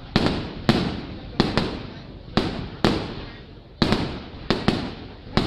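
Fireworks bursting overhead in a steady series: about ten sharp booms in five seconds, some in quick pairs, each trailing off in a rolling echo.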